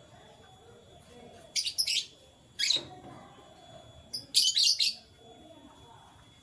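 Canaries chirping in three short bursts of quick, high-pitched chirps: one a little before two seconds in, a brief one near three seconds, and a longer, loudest burst past four seconds.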